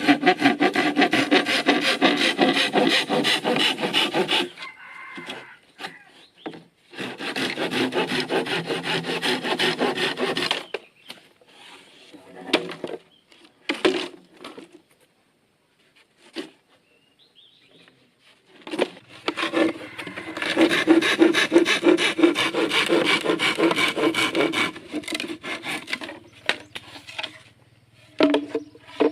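Hand saw cutting wood in three long bouts of quick, even back-and-forth strokes, with short pauses and a few knocks between bouts.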